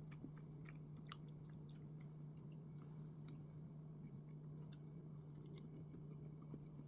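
Faint chewing of soft red-bean bread, with scattered small mouth clicks, a couple of them plainer about a second in, over a steady low electrical hum.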